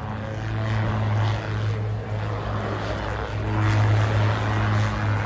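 Rotorsport Calidus autogyro in flight, its engine driving the rear pusher propeller with a steady low drone that swells slightly about three and a half seconds in.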